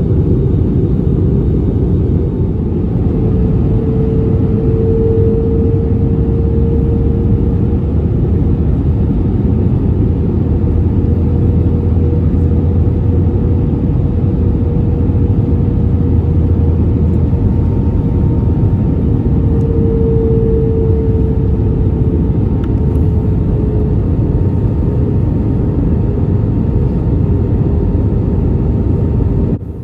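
Airbus A320neo cabin noise during descent: a steady roar of airflow and engines with a deep rumble beneath it, heard from inside the cabin. An engine hum runs through it and swells twice, about five seconds and twenty seconds in.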